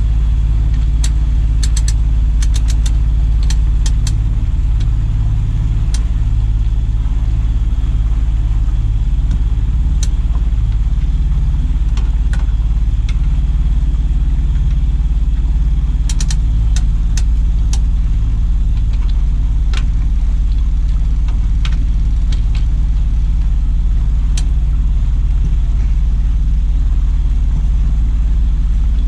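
An engine running steadily with a low, even drone, and scattered sharp clicks over it.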